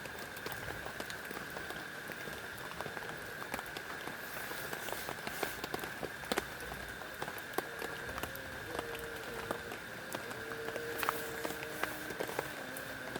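Heavy rain falling steadily, with many separate drops ticking sharply close by. A faint low, wavering tone comes in about halfway through.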